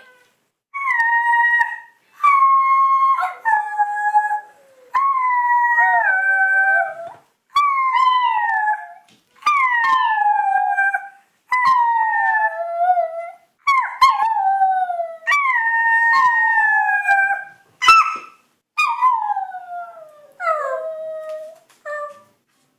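A dog howling, a string of about a dozen drawn-out howls separated by short pauses, each one sliding down in pitch.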